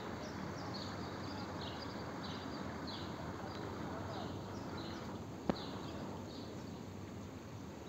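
Small birds chirping again and again, short high chirps about once or twice a second, over steady background noise, with one sharp click about five and a half seconds in.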